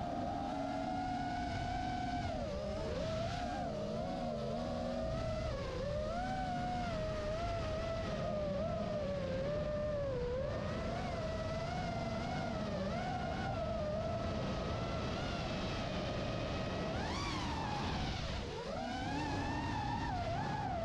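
Electric motor and propeller of a large radio-controlled foam model airplane in flight, a steady whine that wavers up and down in pitch. About three seconds before the end it climbs sharply in pitch, then drops away.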